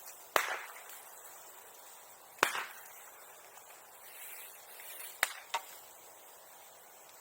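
Bamboo bursting in a bonfire with sharp, firecracker-like bangs: one just after it starts, one about two and a half seconds in, and a quick pair a little after five seconds.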